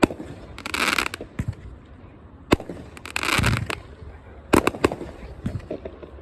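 A 57-shot, 500-gram consumer fireworks cake firing: a string of sharp bangs one to two seconds apart, with longer rushing, hissing bursts about one second and three seconds in.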